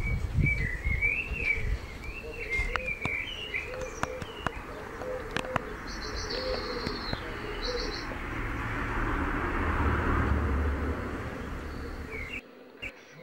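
Birds chirping and calling, with a warbling song in the first half and a low repeated call, over scattered clicks and a swell of rushing noise; the sound cuts off abruptly near the end.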